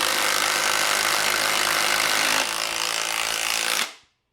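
Two cordless impact drivers hammering long 6-inch Spax screws into wood at the same time: a dense, loud mechanical rattle with the screws grinding through the timber. The sound drops a little about two and a half seconds in, as if one driver has finished, and then stops abruptly near the end.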